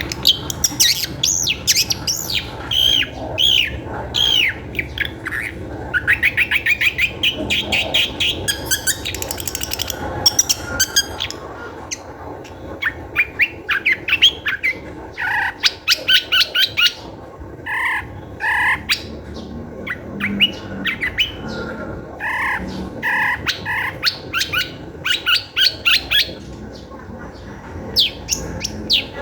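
Long-tailed shrike (cendet) in full, agitated song: fast runs of varied chattering and harsh notes mixed with sweeping whistles, in bursts with short pauses.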